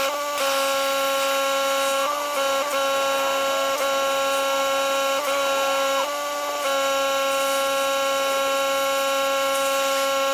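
Pressure washer running with a steady whine, dipping briefly a few times.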